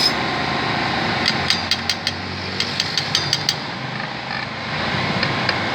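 A quick, irregular run of sharp metal clicks and taps from hand tools during motorcycle rear-brake reassembly, over a steady background hum.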